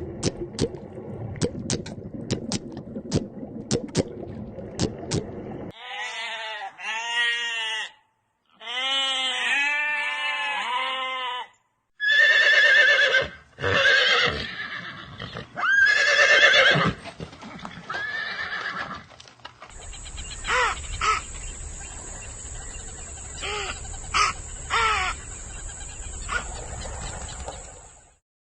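Several different animal calls, one clip after another: a run of clicks first, then repeated pitched calls in quick rising-and-falling arcs, then louder high calls, and a noisy stretch with scattered clicks near the end.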